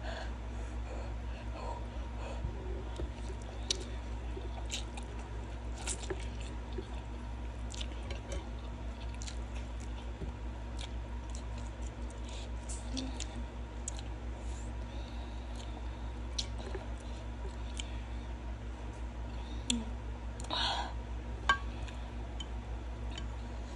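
A person chewing and slurping spicy noodles close to the microphone, with scattered wet mouth clicks and smacks. A steady low hum runs underneath, and a short louder smack or click comes near the end.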